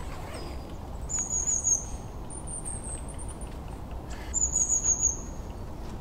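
A small songbird singing high, thin trilled phrases, three of them about a second long each, over a steady low rumble.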